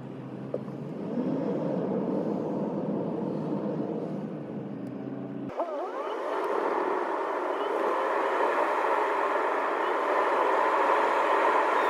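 Driving noise inside a Toyota Crown's cabin: a steady low engine and road hum. About five and a half seconds in, the sound changes abruptly to a higher, steady hiss with the low hum gone.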